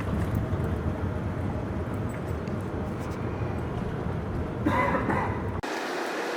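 Car cabin road noise while driving, a steady low rumble from engine and tyres, with a brief louder sound about five seconds in. It cuts off abruptly near the end, replaced by a thinner steady hiss without the low rumble.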